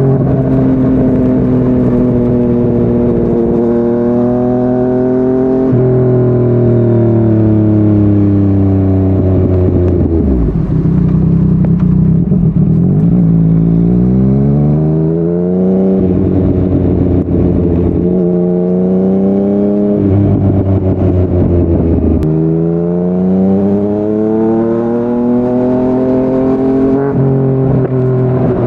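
Yamaha MT-09's three-cylinder engine through a Yoshimura R55 slip-on exhaust, accelerating hard. Its pitch climbs and then drops sharply at each upshift. About ten seconds in it eases off, then pulls again through a quick run of upshifts.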